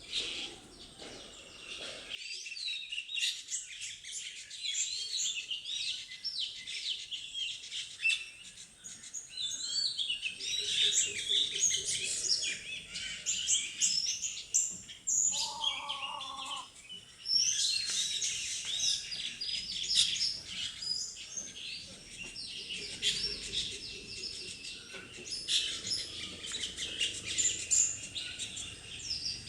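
Many birds chirping densely and continuously in high, short notes, with one brief lower-pitched call about halfway through.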